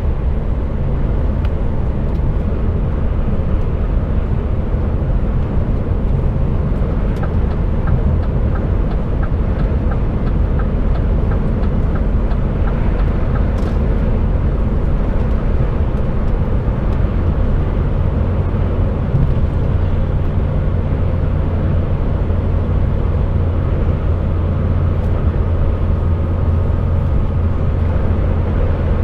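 Articulated lorry's diesel engine and road noise heard inside the cab on the move: a steady low drone that grows stronger about halfway through.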